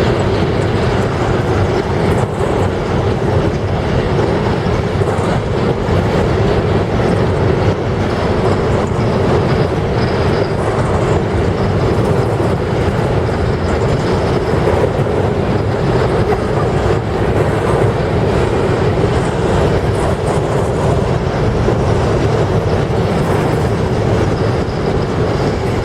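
Train wagons rolling past, their wheels running steadily on the rails.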